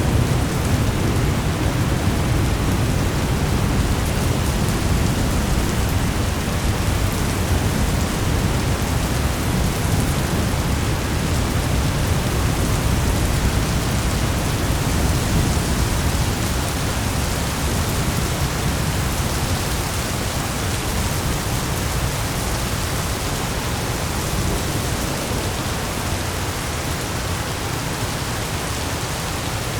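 Steady heavy rain with a low rumble of thunder that slowly fades.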